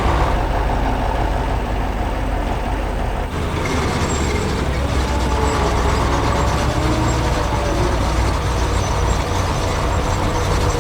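Heavy construction-vehicle engine sound effect running steadily with a low rumble, shifting in tone about three seconds in.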